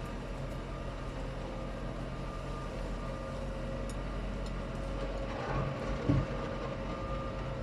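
Heavy vehicle engine running steadily, a low drone with a steady whine over it, and a short louder knock about six seconds in.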